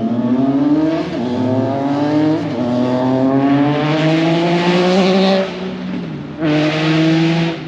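A vehicle's engine and exhaust accelerating hard away, its pitch climbing and dropping back with each upshift about a second in, around two and a half seconds in and near five and a half seconds in, then a final short burst of throttle near the end.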